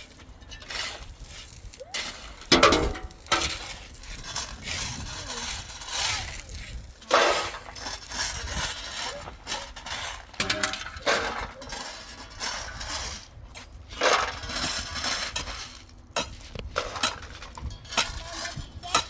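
Irregular clinks and knocks of hard objects being handled, with the sharpest hits about two and a half seconds in, about seven seconds in and about fourteen seconds in.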